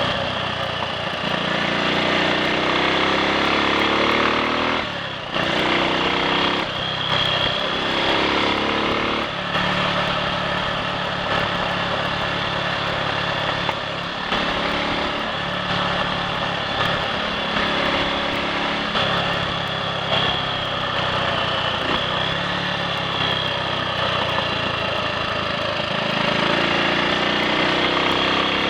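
A Triumph Sports Cub's single-cylinder four-stroke engine running under way, its note rising as it accelerates, with short dips about five and nine seconds in, then climbing again near the end. It runs on without misfiring or cutting out, now that fine rust from the fuel tank has been cleared from around the carburettor's main jet.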